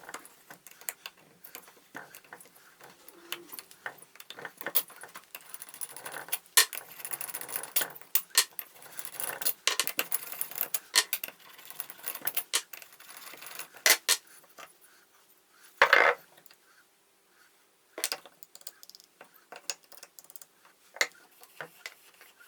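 Irregular metallic clicks and clinks of an Allen key and small metal parts being handled while the cylinder head of an old air compressor is unbolted, with a louder clatter about two-thirds of the way through.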